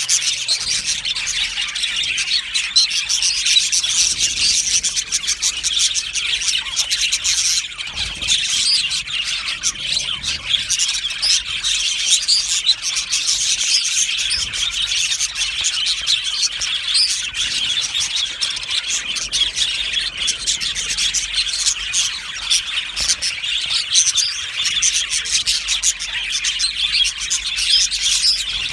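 A colony of many budgerigars chirping and chattering at once, a dense, continuous warble of overlapping calls.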